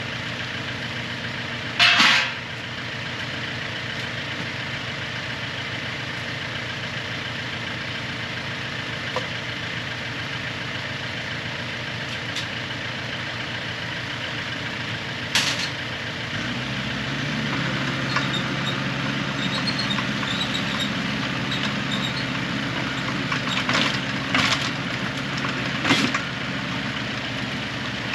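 Engine running steadily at idle, its note getting a little louder and fuller about halfway through, with a few sharp knocks over it.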